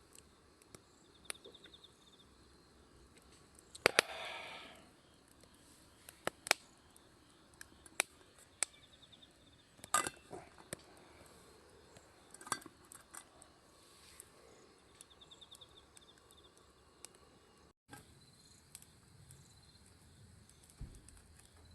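Insects chirping in short pulsed trills, with scattered sharp clicks and small knocks, and a brief rustling burst about four seconds in.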